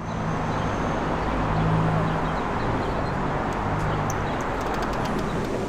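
Bombardier Toronto Rocket subway train running: a steady rumble with a low hum under it that comes and goes.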